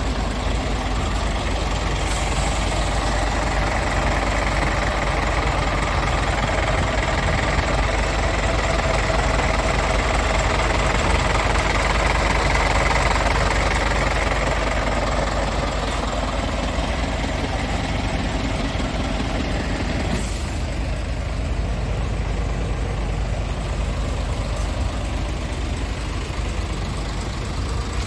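Scania S tractor unit's engine idling steadily, with one short sharp noise about twenty seconds in.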